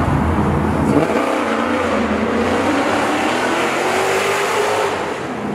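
Car engine revving loudly, its pitch rising and falling, over a dense rush of exhaust noise.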